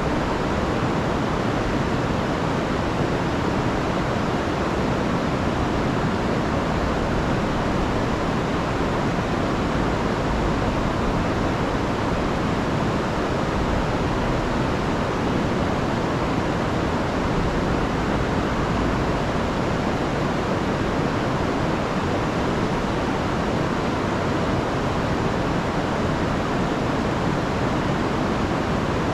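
Rain-swollen river rushing in a steady roar of water.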